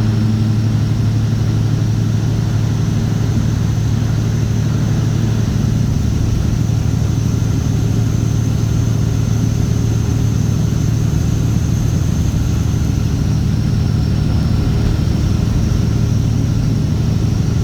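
Straight-piped Cat C15 ACERT diesel in a Kenworth W900 running at steady revs: an even, deep exhaust drone, with a faint high whine above it that dips slightly about three-quarters of the way through.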